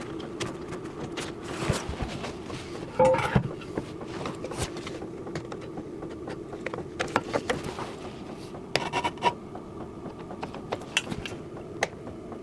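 Hands-on workshop handling: scattered light clicks, taps and scrapes of tools and metal hardware being handled, with a small cluster of knocks about three seconds in and another near nine seconds, over a faint steady hum.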